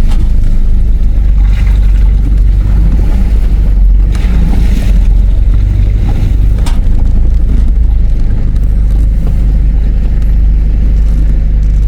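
Off-road vehicle driving slowly over a rough dirt track: a steady low engine and drivetrain rumble with road noise, and a few knocks and rattles from bumps about one and a half, four and seven seconds in.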